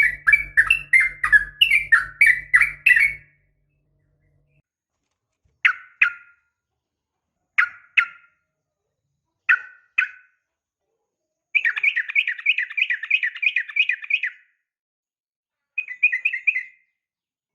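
Yellow-vented bulbul (trucukan) calling: a fast run of chirping notes over the first three seconds, then short two-note calls about every two seconds, a rapid trill of about three seconds from roughly twelve seconds in, and a brief burst near the end, with dead silence between. A low steady hum lies under the opening run.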